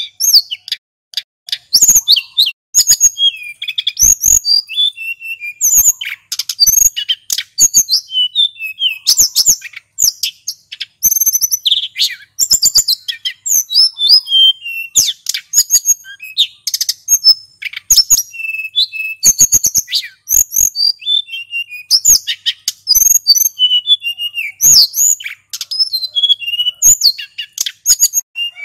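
Male sulingan gunung singing without pause: a rapid, varied stream of high-pitched chirps, whistles and short trills.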